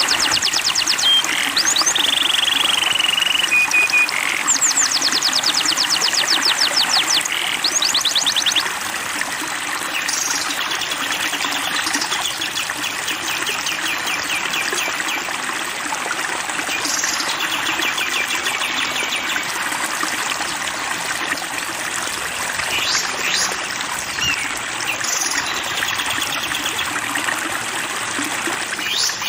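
Songbirds singing over steadily running water: rapid trills and short held whistles repeat throughout. About eight seconds in the song changes and the whole goes a little quieter.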